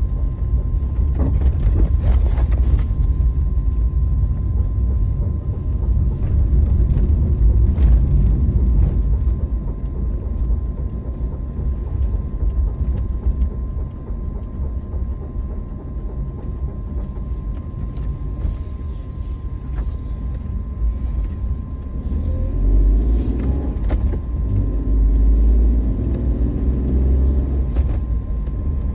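Daihatsu Hijet Cargo van on the move, a heavy low rumble, with an abnormal noise from its brakes that a dealer could not trace to a cause. A wavering groan rises and falls over the last several seconds.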